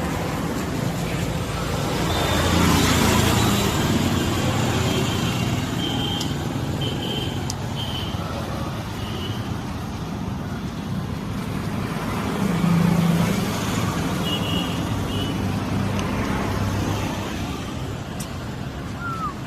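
Road traffic noise, with vehicles passing and swelling louder about two seconds in and again about twelve seconds in. A few short high beeps come in a row about six seconds in.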